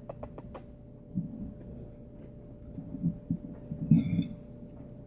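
Person chewing food close to the microphone: soft low thuds with a few faint clicks, the strongest about four seconds in, over a faint steady hum.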